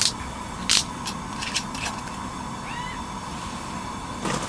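Wine bottle being opened and handled: a few sharp clicks and taps in the first two seconds and a rustle near the end, over a steady faint hum.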